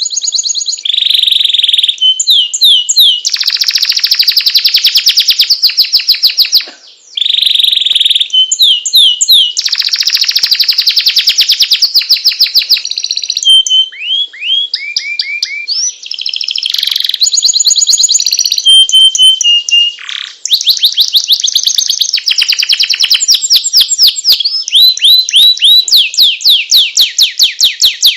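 Domestic canary in full song: a long, loud, continuous run of rapid trills and rolls made of fast repeated high notes, changing phrase every second or two, with a brief break about seven seconds in.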